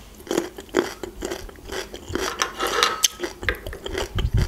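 Close-miked chewing of a pickled gherkin: irregular wet crunches and mouth clicks, with a low thud near the end.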